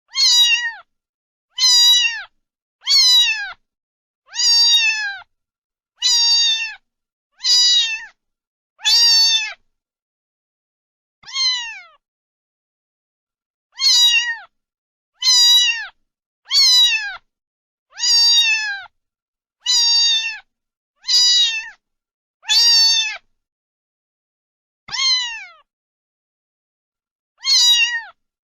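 A cat meowing over and over, about seventeen loud meows each under a second long, each dropping in pitch at the end, with short pauses between and a few longer gaps.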